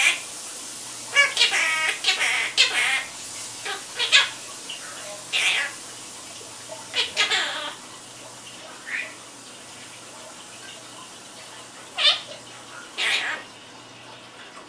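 Quaker parrot (monk parakeet) chattering in short, pitched, squawky calls, bunched in the first half, with a quiet lull before a few more calls near the end.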